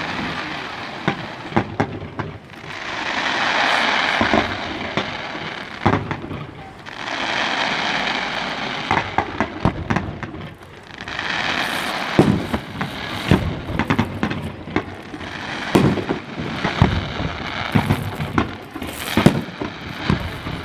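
Fireworks display: many sharp bangs from exploding fireworks in quick, irregular succession, with three swells of dense rushing noise lasting a couple of seconds each.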